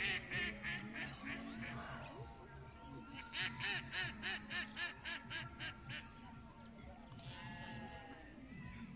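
Two quick runs of repeated calls from a bird, about five calls a second: one in the first two seconds, a louder one from about three to six seconds in.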